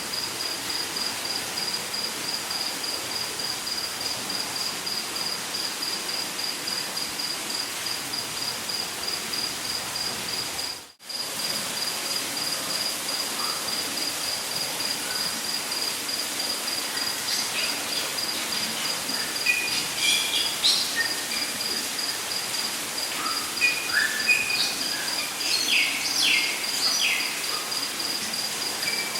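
Rainforest ambience: an insect chirping in a fast, even pulse at a high pitch over a steady hiss, with birds calling in short chirps from a bit past halfway on. The whole sound drops out for a moment about a third of the way in.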